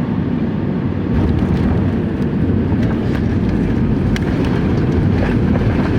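Airbus A320 cabin noise: a steady, loud rumble of the jet engines and airflow, getting a little louder about a second in, with faint light rattles.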